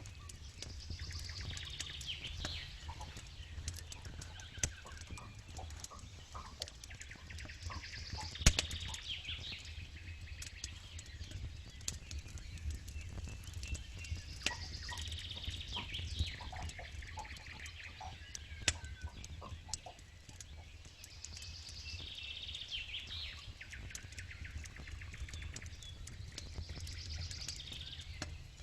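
Campfire crackling and popping, with one sharp loud pop about eight seconds in, over a low steady rumble. A bird sings the same short high phrase again and again, about every six seconds.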